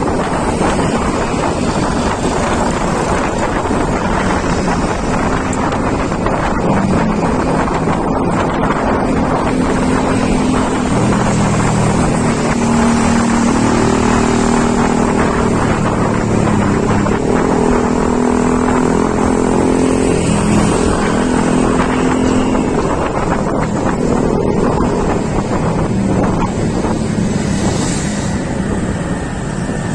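Heavy wind buffeting the microphone during a road ride, over a vehicle engine's hum that rises and falls in pitch through the middle stretch.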